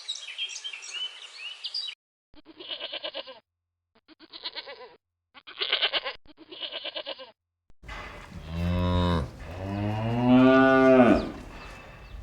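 Birds chirping for about two seconds, then after a break four short bleats from sheep or goats, then a cow mooing twice, long and deep, the second moo the loudest.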